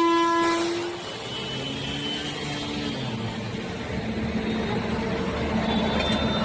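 Train horn blowing one steady note that cuts off about a second in, followed by a steady vehicle engine rumble.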